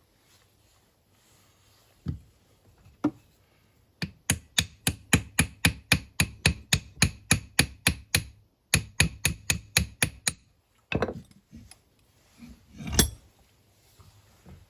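Hammer rapping on metal while working the blade clutch bearing of a Honda HRX mower: two single knocks, then fast even runs of ringing taps at about five a second with a short pause between runs, and a few louder separate blows near the end.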